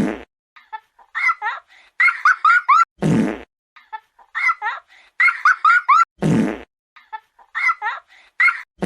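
Cartoon fart sound effect repeated about every three seconds, each one short and loud. Between them come clusters of quick, high-pitched squeaky chirps.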